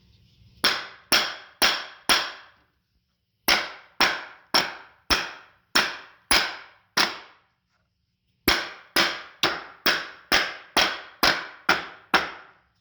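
Rubber mallet striking the frame of an S18 electric unicycle near the wheel bearing, with its screws loosened. The blows come in three runs, about two a second. This is done to reseat the ball bearing that is blamed for a clicking noise.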